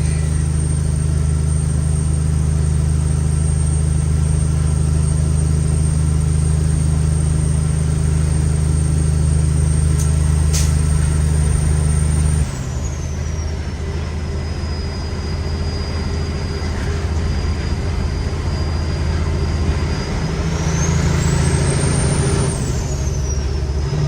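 Cummins X15 diesel engine of a loaded Kenworth T800 truck pulling steadily, with a high turbo whistle. About halfway through the engine note drops and the whistle glides down; later the revs and whistle climb again, then dip briefly near the end.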